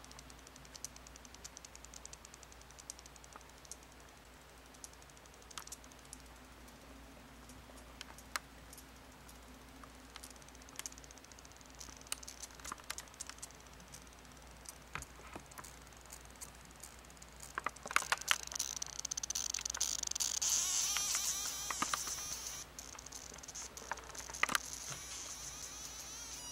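Plastic juice container's airtight lid seal squeaking as air squeezes past it: a high, buzzing squeal made of rapid ticks. It comes in louder about two-thirds of the way in, with faint scattered clicks before it.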